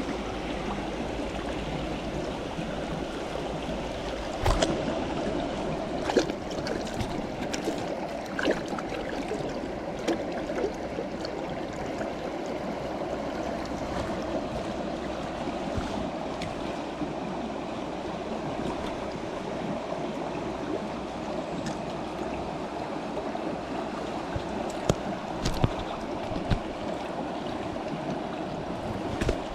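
Steady rush of flowing stream water, with a few short sharp clicks or knocks now and then.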